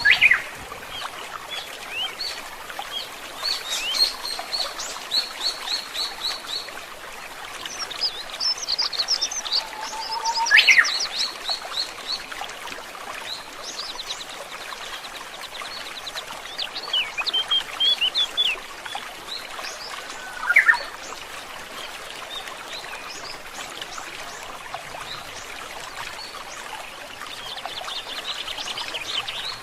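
Several wild birds calling and singing over the steady rush of flowing stream water: a repeated call of a short level whistle that sweeps sharply upward, heard near the start and again about ten seconds in, along with fast trills and scattered chirps.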